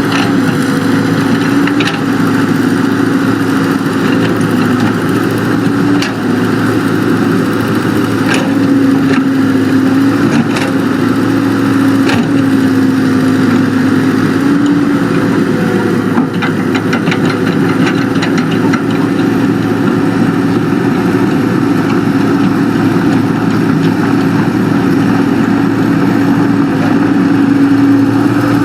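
Excavator engine running steadily under load, its pitch rising and falling slightly, with a few sharp knocks.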